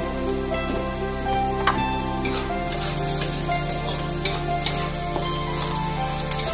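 Onions and garlic sizzling as they fry in oil in a metal wok, with a few clicks and scrapes of a utensil stirring them.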